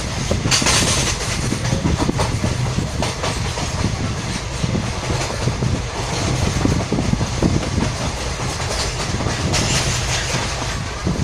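A train running, heard from on board: a steady rumble of the wheels on the rails with scattered clicks. There is a louder rush of noise about half a second in and again near the end.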